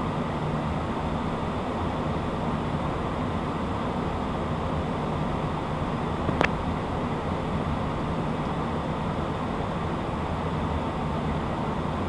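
Steady in-flight cockpit noise of a Beechcraft Premier 1 twin-turbofan business jet: airflow and engine noise with a low hum. A single sharp click about halfway through.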